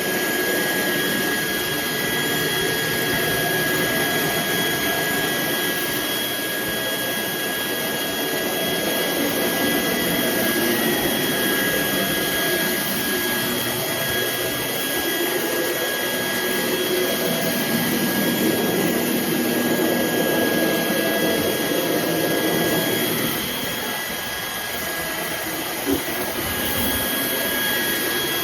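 Roborock H60 Ultra cordless stick vacuum running steadily: a rush of air with a constant high-pitched motor whine. The lower rumble shifts as it works, the level drops slightly near the end, and there is one short click.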